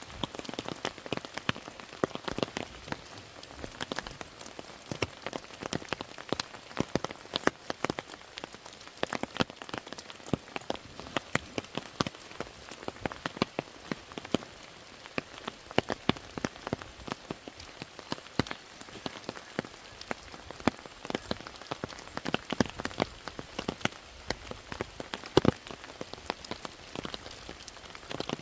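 Rain falling steadily, with many separate drops striking close by at an irregular pace.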